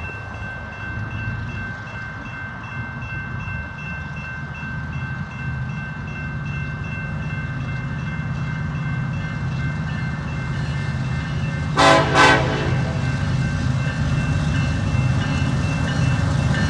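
Union Pacific diesel locomotives, led by EMD SD70ACe #8702, approaching with a low rumble that grows steadily louder. Two short horn blasts sound about twelve seconds in.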